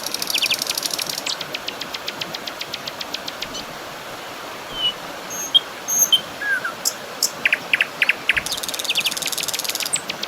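Birds chirping and calling, with fast trills of rapid ticking notes near the start and again near the end, and a few short down-slurred calls in between, over a steady background hiss.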